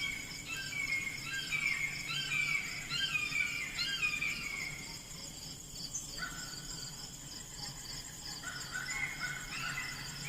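A bird singing a run of repeated whistled notes, each sliding downward in pitch. It pauses about halfway through and starts again near the end, over a steady high pulsing chorus of insects.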